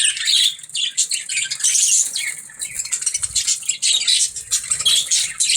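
Budgies chattering and chirping: a dense, continuous run of short, rapid, high-pitched calls.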